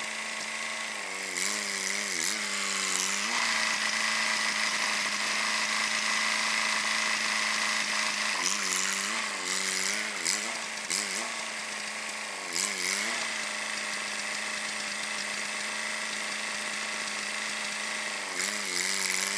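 An engine running steadily, its pitch dipping and recovering four times.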